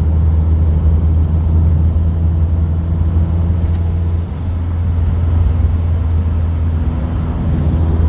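Car engine running steadily at cruising speed with road noise, heard from inside the cabin; the drone dips briefly about four seconds in, then picks up again.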